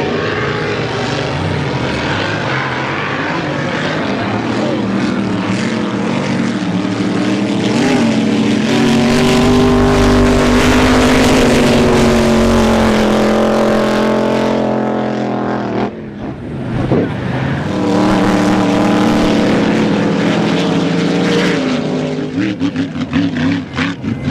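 Drag boat engine running loud with a steady pitched note, held for several seconds at a time. It cuts off sharply about two-thirds of the way through, then comes back for a few seconds.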